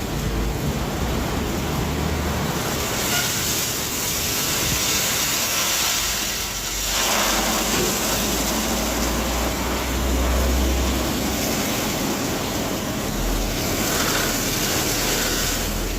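Automatic car wash machinery running: a steady rush of spraying water and air over a low motor rumble, with the hiss growing brighter about seven seconds in.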